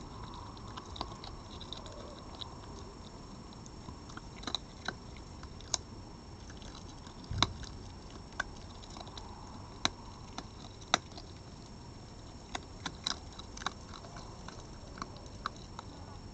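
An animal eating at a feeding spot: irregular, sharp crunches and clicks of food being bitten and chewed, over a steady low hiss.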